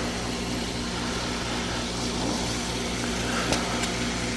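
Pool filter pump running steadily during a backwash: a steady electric motor hum with rushing water. A light click about three and a half seconds in.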